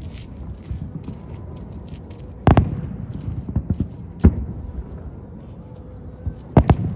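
Aerial firework shells bursting: a sharp boom about two and a half seconds in, another under two seconds later, and a quick double boom near the end, over a steady low background noise.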